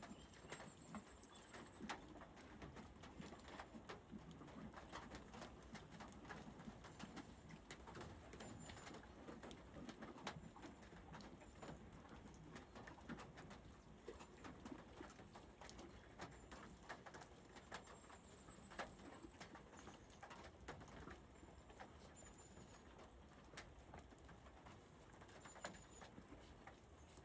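Faint rain pattering as scattered drips, with short high bird chirps now and then.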